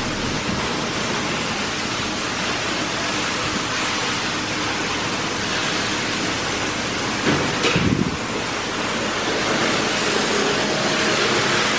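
Oasis Monsoon in-bay automatic car wash spraying water over a car in a steady hiss, with a brief low thump about seven and a half seconds in.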